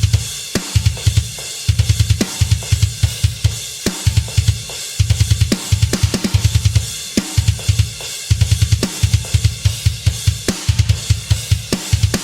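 Acoustic drum kit heard through close microphones, played loud: fast runs of bass drum strokes in short bursts, with sharp snare hits and a steady wash of cymbals and hi-hat.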